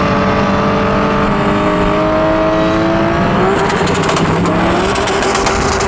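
Engine of a roughly 1,000-horsepower BMW E34 M5 accelerating hard. The engine note climbs steadily, drops at a gear change about three and a half seconds in, then climbs again.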